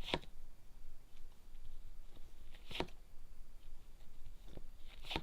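A few brief, faint taps and rustles of tarot cards being handled and laid down on a table.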